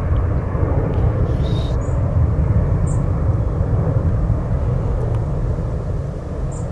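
Loud, steady rumble of a large aircraft's engines flying low over the fields from RAF Brize Norton, easing slightly near the end.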